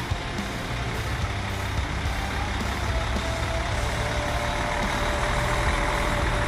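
Heavy vehicle engine running steadily, a low rumble with a steady whine joining about halfway through.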